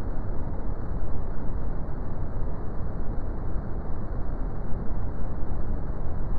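Brown noise: a steady, deep rumbling hiss, strongest in the bass and falling away toward the treble, with no events or changes.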